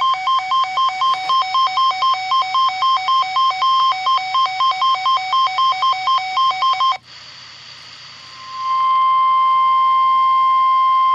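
Weather alert radio sounding its alarm: a rapid beeping that alternates between two pitches, a few beeps a second, for about seven seconds. It stops, and shortly after a single steady tone rises in and holds. This is the weather radio warning alarm tone that comes before a warning message is read.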